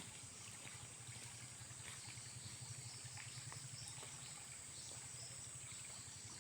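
Faint night-time outdoor ambience: a steady high-pitched insect drone, with a low steady hum beneath it and a few faint ticks.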